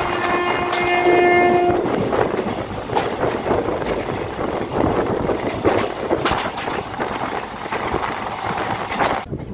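Train horn sounding as one steady tone that stops about two seconds in, followed by the rattle and clatter of a moving train's wheels and carriages.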